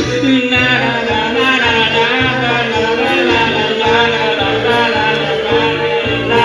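Live band music: a brega/seresta love song played on, with a steady bass beat about twice a second under a wavering melodic lead.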